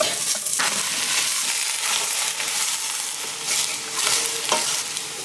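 Minced garlic sizzling in hot grapeseed oil in a stainless steel pot, then bok choy, with a wooden spatula stirring and scraping the pan. A steady frying hiss runs throughout, broken by short scrapes.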